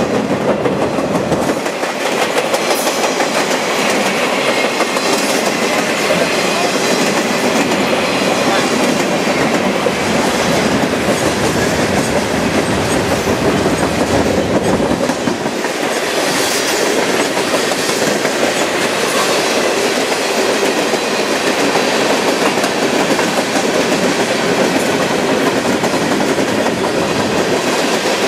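Freight cars rolling past close by: the steady noise of steel wheels running on the rails, with clatter as the wheels pass over the rail joints.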